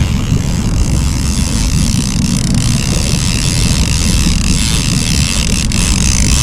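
A boat's motor runs steadily while trolling, a constant low rumble with wind noise on the microphone.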